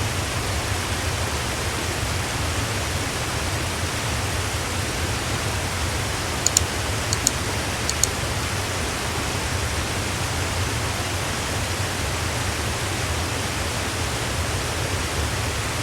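Oboadaka waterfall's water pouring and crashing, a steady, dense rush with a deep low rumble. A few brief high clicks come about six to eight seconds in.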